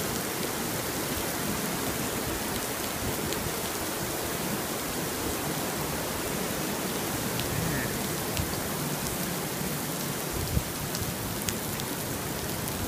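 Heavy rain pouring steadily onto paved ground: an even, dense hiss with scattered sharp ticks of nearby drops.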